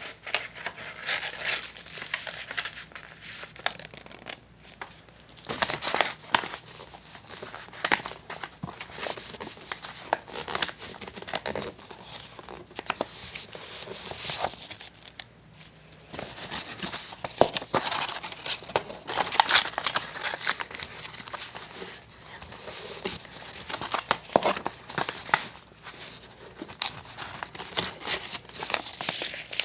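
A sheet of paper being handled and folded into a paper boat, crinkling and rustling in irregular bursts with short pauses between folds.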